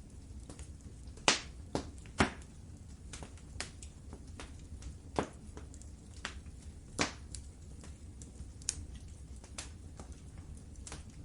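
Wood fire crackling: irregular sharp pops and snaps over a low, steady rumble of flame, with the loudest pops about a second in, a second later, and again about seven seconds in.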